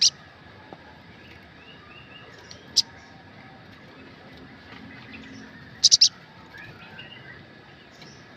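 Olive-backed sunbird (sogok ontong / sriganti) calling: sharp, high chirps at the start, about three seconds in and about six seconds in (the last a quick double), with fainter short twittering notes between.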